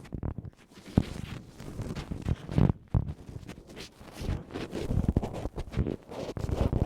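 Ear pick scraping and rubbing close against the microphone, the sound of ASMR ear cleaning: uneven scratchy strokes broken by sharp clicks.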